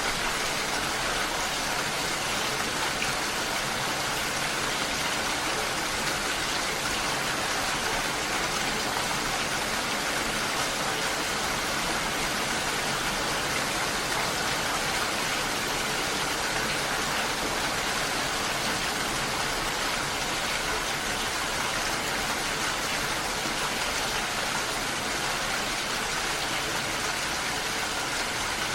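Steady rushing water noise, an even hiss with no single drops, splashes or strokes standing out.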